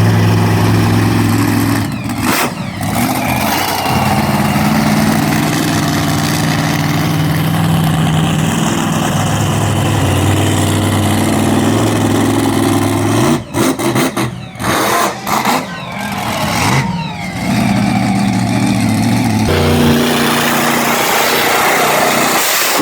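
Monster truck engine running loud and revving hard. It drops off briefly about two seconds in, then cuts in and out for several seconds a little past halfway before pulling steadily again.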